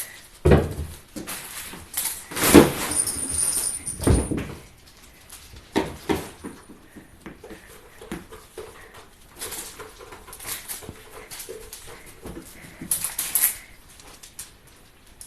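Crinkly dragonfly wand toy rustling as cats chase and pounce on it, with knocks and scrabbling in irregular bursts. The loudest bursts come in the first few seconds, with another shortly before the end.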